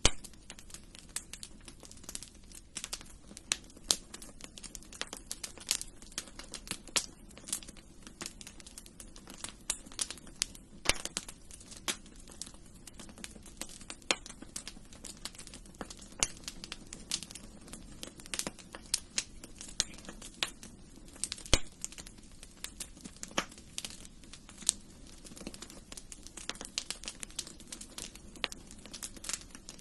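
Wood fire in a fireplace crackling steadily: many small irregular pops and snaps each second over a soft low hiss.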